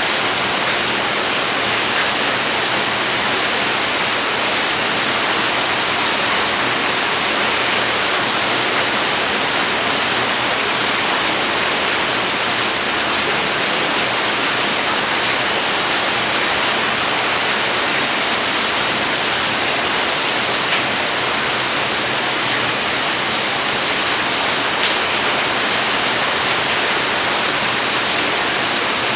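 Heavy rain falling steadily: a loud, even hiss that does not let up.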